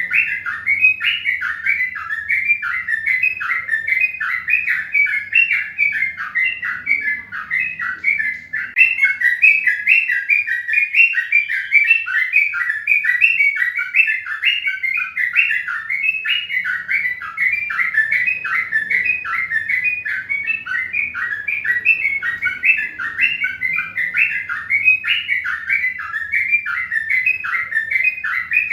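Birds chirping continuously: an unbroken run of short, downward-sliding chirps, about four a second.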